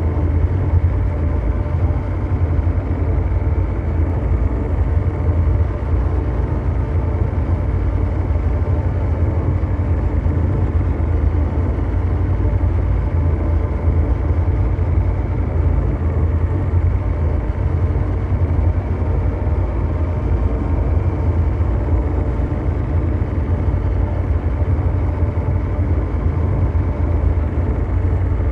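Steady ambient mechanical drone: a deep, even rumble of dark noise, heaviest in the bass, with faint steady hum tones over it and no change in level or pitch.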